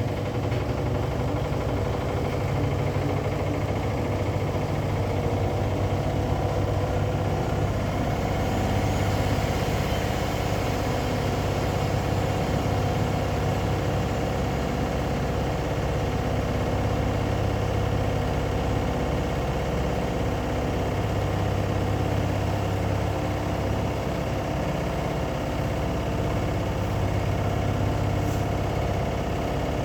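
Washing machine running steadily: a constant motor hum with several steady tones, unchanging throughout.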